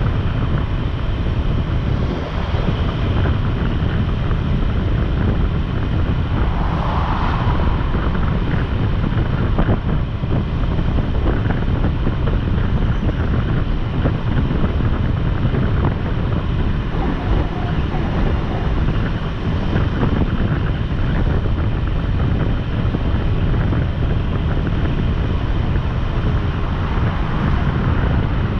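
Steady wind rush buffeting the microphone of a motorcycle at road speed, with the bike's engine and road noise underneath.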